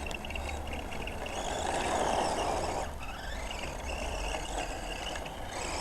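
Radio-controlled truck running: motor and tyres give a steady rush of noise that swells about two seconds in and drops back just before three seconds.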